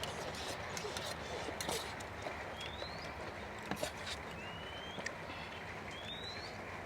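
Steady rain, with scattered light clicks and taps and a short rising chirp every second or two.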